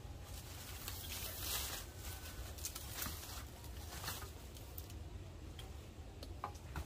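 Leaves and bamboo stems rustling and crackling as a bamboo stem is cut with a hand pruning saw and pulled free of the clump: one longer swish about a second in, then scattered sharp clicks and snaps.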